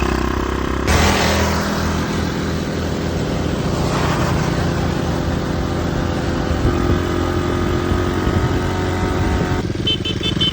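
Gambler mini bike's small single-cylinder engine running hard and continuously; its piston is cracked, so the engine has lost compression.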